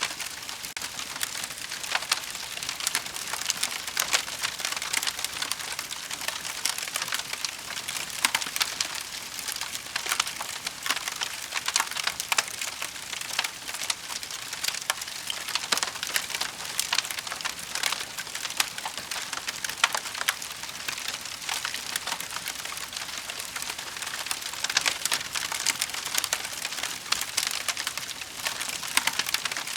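Wood fire burning in a fireplace: a steady hiss of flames with constant irregular crackles and sharp pops from the burning logs.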